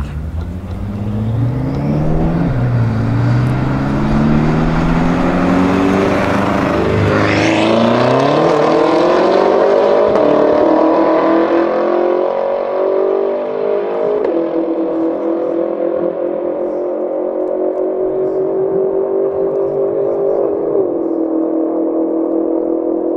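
Two BMW twin-turbo V8s at full throttle in a drag race: the 812 hp Horse Power Technics Stage 2+ BMW M6 F13 and a second BMW sedan. Their engine notes climb and drop back through several upshifts as the cars accelerate away down the strip.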